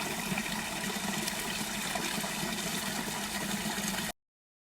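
Steady rushing of flowing water, a stream running through the valley, which cuts off abruptly into dead silence about four seconds in.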